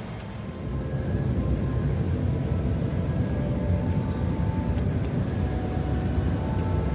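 Steady low engine rumble of a vehicle or aircraft, growing louder about a second in.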